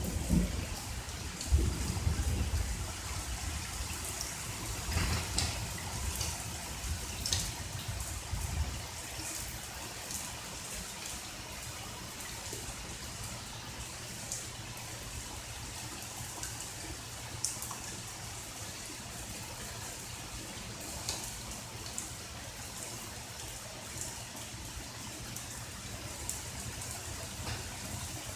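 Rain falling steadily, with scattered drips. The low rumble of thunder dies away over the first several seconds.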